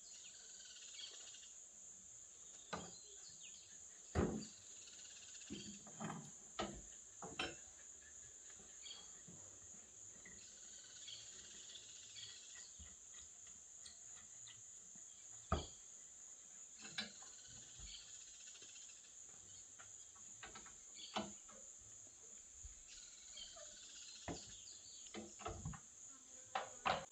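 Insects, crickets by their sound, chirring steadily and high-pitched, with a few faint scattered clicks and knocks.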